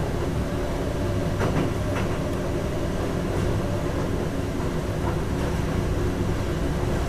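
Electric passenger train running along the track, heard from inside the driver's cab: a steady rumble with a few clicks about one and a half to two seconds in.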